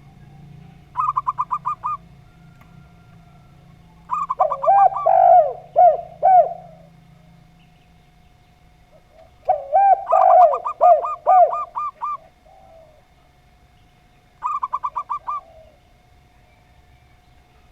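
Doves cooing in four bouts: fast staccato trills of about eight notes, typical of a zebra dove (perkutut), and twice a lower series of swooping coos overlapping them, matching a spotted dove (derkuku/tekukur). A faint steady tone hums underneath.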